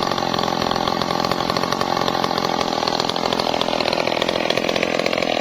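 Two-stroke chainsaw running at high revs through a cut in wood, its pitch dipping slightly in the middle and climbing again near the end.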